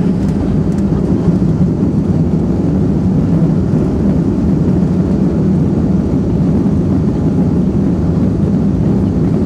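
Steady low rumble of a Boeing 757 rolling on the runway just after landing, heard from the flight deck: engine and rolling noise with no sharp events.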